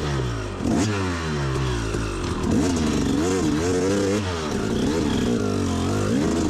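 Dirt bike engine that comes in suddenly, then revs rising and falling over and over as the throttle is worked, climbing a steep hill.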